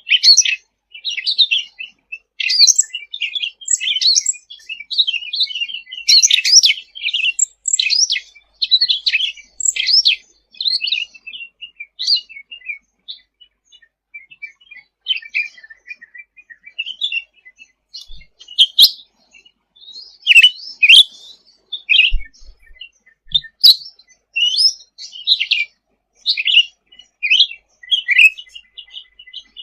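Cucak ranting songbird singing a rapid, varied stream of high chirps and trills. The song thins out briefly about halfway through, then picks up again.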